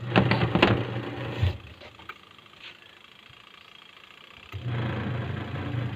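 Washing machine motor humming in short runs: it stops about one and a half seconds in and starts again near the end.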